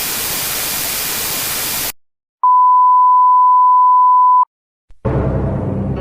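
About two seconds of loud white-noise static that cuts off sharply, then after a short pause a single steady pure-tone censor bleep lasting about two seconds. Music begins near the end.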